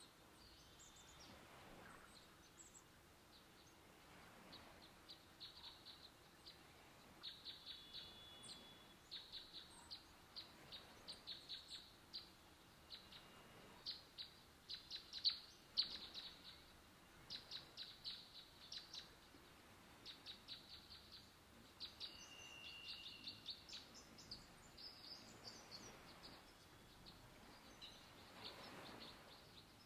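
Faint small-bird chirps and calls: quick runs of short, high notes in repeated bursts, over a quiet, even forest background.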